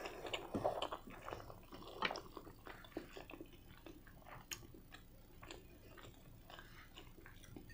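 A person chewing a mouthful of spaghetti with the mouth closed: faint, irregular wet mouth clicks and smacks, a little louder in the first couple of seconds.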